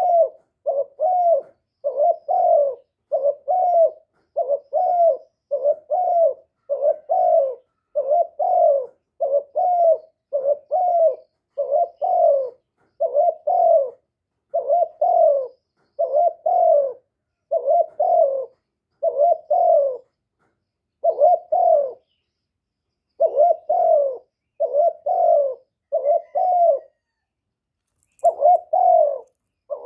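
Spotted dove cooing in a fast, insistent series of short coos, about one to two a second, with a brief pause a little before the end.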